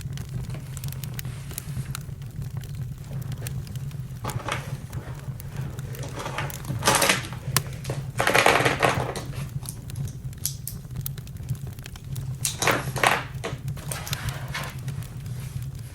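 Campfire crackling with scattered sharp clicks over a steady low rumble, and a few louder brief noises, the biggest about halfway through.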